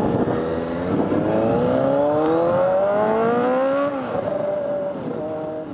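Motorcycle engine accelerating, its pitch rising steadily for about three seconds, then dropping suddenly at a gear change about four seconds in and running on at lower revs as it fades.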